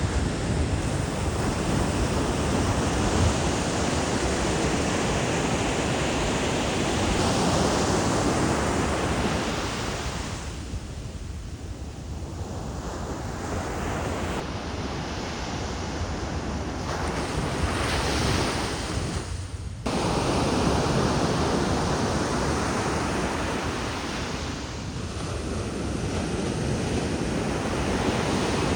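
Surf washing onto a beach, with wind buffeting the microphone. It eases off about a third of the way in and comes back suddenly about two-thirds of the way through.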